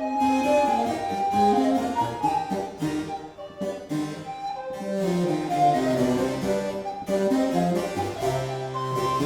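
Baroque chamber music played live, with a harpsichord prominent, a moving line of short notes over a bass.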